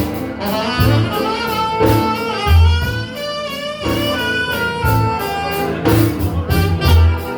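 Live blues band playing, with a saxophone carrying a melody of held, bending notes over drums and bass beating about once a second.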